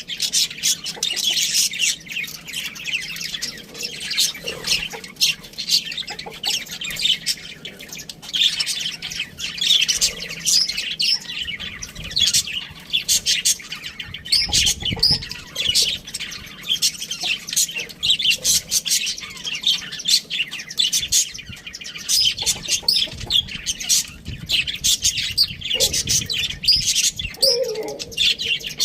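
Budgerigars chattering: a dense, continuous stream of quick high chirps and warbles.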